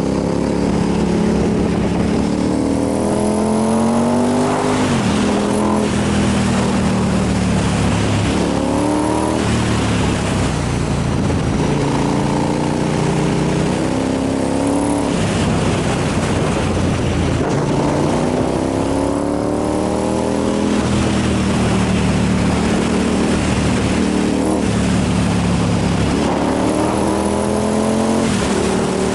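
Motorcycle engine under way, its pitch climbing and then dropping again about six times as the rider accelerates and eases off, with wind noise throughout.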